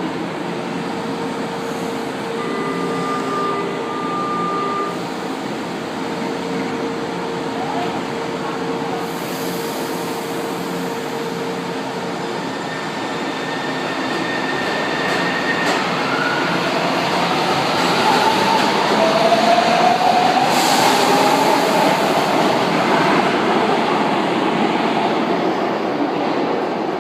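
São Paulo Metro Line 2 train running through the underground station, with steady machine noise and a few held tones early on. From about 16 seconds in, a rising whine builds and peaks a few seconds later as the train gains speed.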